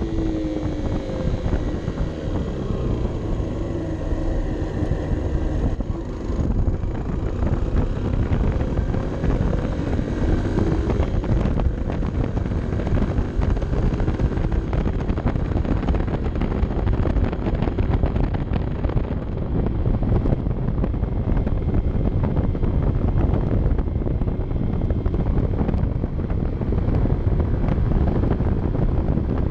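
Honda CB 125 F's single-cylinder four-stroke engine running while riding, mixed with heavy wind noise on the onboard camera's microphone. The engine pitch glides up and down in the first few seconds, then is mostly buried under the wind.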